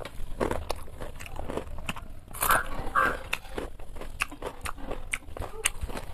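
A person chewing a mouthful of rice and fried food close to the microphone, with many short wet clicks and smacks of the mouth and a few louder ones a little before the middle.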